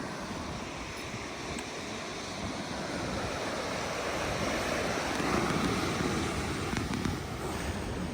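Waves breaking on the shore of a rough sea, the wash swelling to its loudest about halfway through and then easing, with wind buffeting the microphone.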